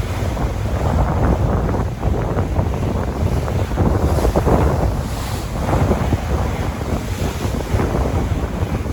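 Sea waves washing and surging, with wind buffeting the microphone in a constant low rumble.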